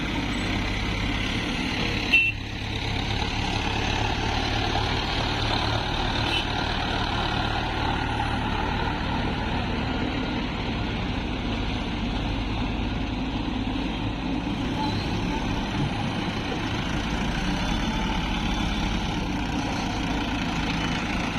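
Heavy diesel machinery running steadily at work, an excavator and tractors, with one sharp knock about two seconds in.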